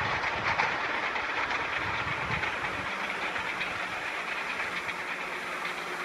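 Narrow-gauge train running on its rails: a steady rush of wheel-on-rail noise, with some clicking over the joints in the first second or so.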